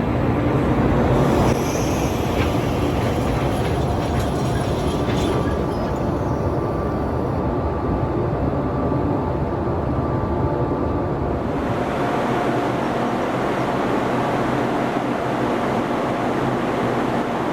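Freight train hauled by a JR Freight ED76 electric locomotive, running on the rails with a steady rumble and a few clicks in the first seconds; about twelve seconds in, the low rumble drops away.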